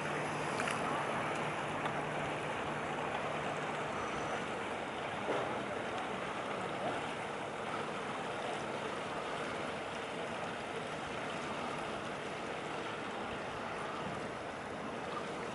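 Steady riverside ambience: an even wash of water and wind noise, with a low hum for about the first four seconds and a few faint knocks.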